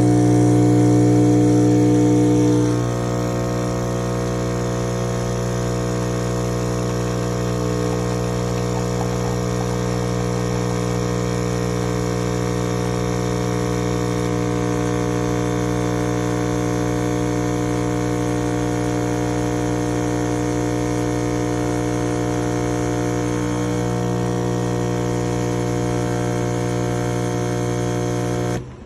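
De'Longhi Stilosa espresso machine's vibratory pump buzzing steadily, dropping a little in level about three seconds in and cutting off abruptly near the end.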